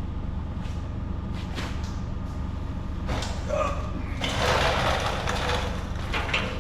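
Air compressor running steadily in the shop. About three seconds in, a pneumatic tool runs in a hissing burst for about three seconds while bolts are tightened down.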